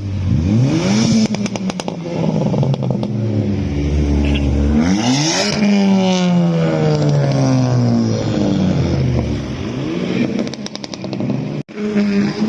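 Car engine revving hard and accelerating away. Its pitch climbs to a peak about five seconds in, then falls away over several seconds as it passes.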